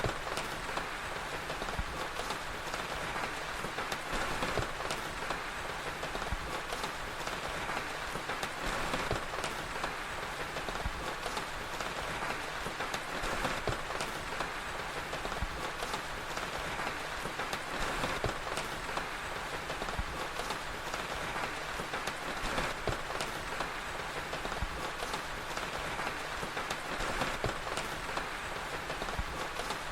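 Steady rain falling as an even hiss, mixed with the frequent small pops and crackles of a fire.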